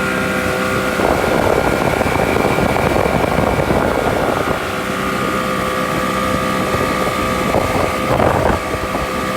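Motorboat engine running steadily under way, with a rush of wind and water noise swelling from about a second in to the middle and again briefly near the end.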